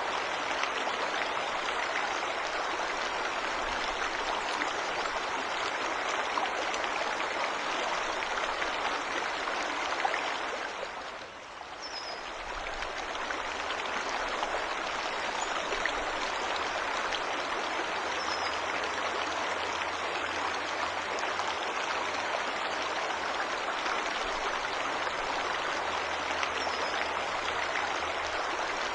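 Steady rushing of a forest waterfall, with a few faint, short high bird chirps. The rush dips briefly about eleven seconds in, then comes back.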